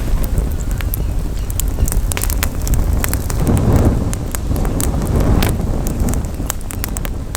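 Campfire crackling, with many sharp, irregular pops and snaps, over a steady low rumble of wind on the microphone that swells briefly a little past the middle.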